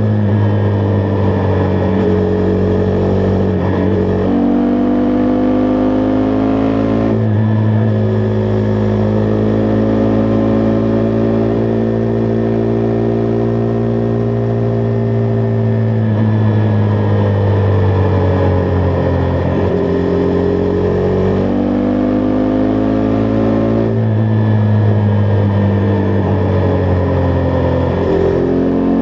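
Husqvarna Vitpilen 401's single-cylinder engine under way at road speed. The engine note holds steady for long stretches and dips and rises in pitch several times, as the throttle is rolled off and back on and gears are changed.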